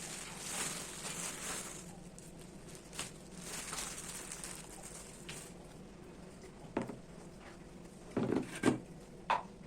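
Kitchen items being handled while organising a pantry cupboard: soft rustling at first, then scattered light clicks and knocks of things being picked up and set down, loudest in a short cluster about eight seconds in.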